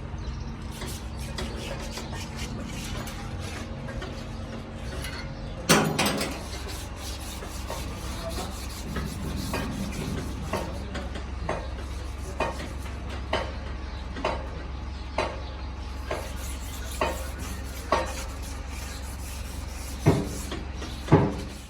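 Hand work on metal engine parts: a steady low hum, one sharp knock about six seconds in, then light taps about once a second in the second half.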